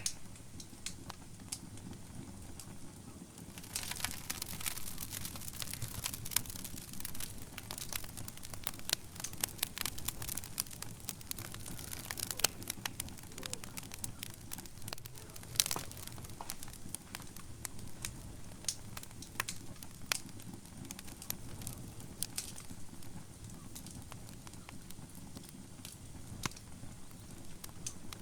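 Wood fire burning in a fireplace: a steady low rumble of flames with sharp, irregular crackles and pops, which come thick and fast through most of the middle and thin out near the end.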